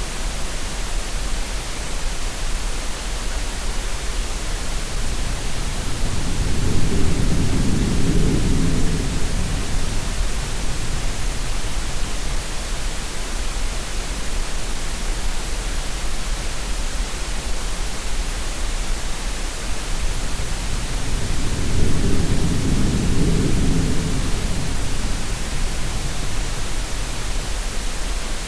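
Steady green-noise hiss. Twice, about 15 seconds apart, a deep sea-wave swell rises and fades over about four seconds.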